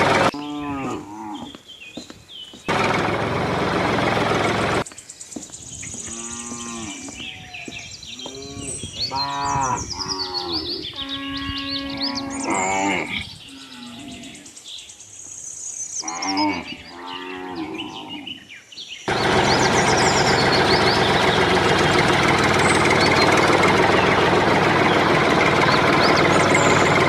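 Cattle mooing, a series of calls that rise and fall in pitch, some short and one held steady near the middle. A loud steady rushing noise cuts in briefly after the first call and again for the last eight seconds.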